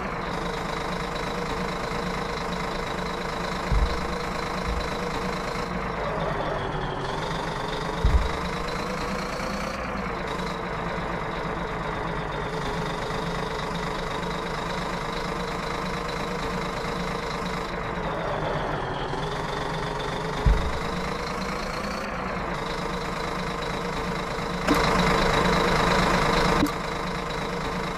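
Tractor engine running steadily, its pitch sagging and picking up again twice, with a few short thumps and a louder stretch near the end.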